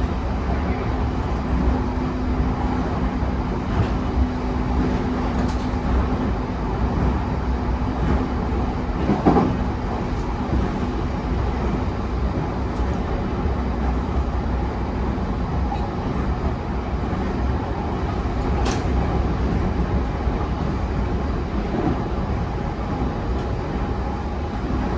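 Cabin running noise of a JR E131 series electric train travelling between stations: a steady rumble of wheels on rail with a faint steady hum that fades about six seconds in, and a single louder clunk about nine seconds in.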